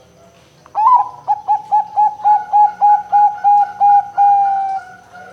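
Zebra dove (perkutut) cooing: a rising opening note, then a quick run of about a dozen short, even coos at about four a second, ending in one longer drawn-out note.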